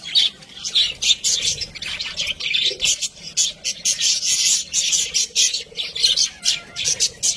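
Budgerigars chattering: a dense, unbroken run of quick high-pitched chirps and squawks, several a second.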